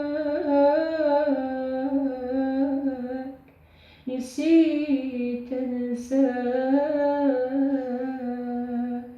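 A woman humming a melody without words and unaccompanied, in two long phrases with a short pause and a breath about four seconds in.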